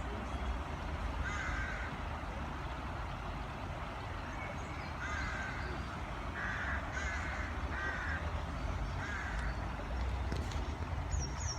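Harsh, cawing bird calls repeated about six times, several of them close together in the middle, over a steady low background rumble.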